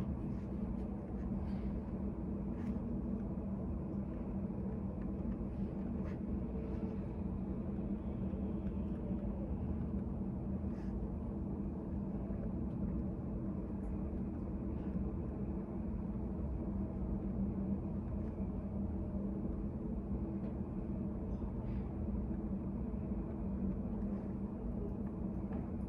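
Steady low room hum with several fixed tones, the background of a study cafe, with a few faint light taps or clicks now and then.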